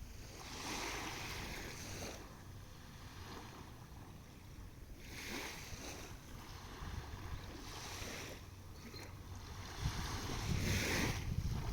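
Small sea waves washing onto the shore in three swells of surf about five seconds apart, with wind buffeting the microphone near the end.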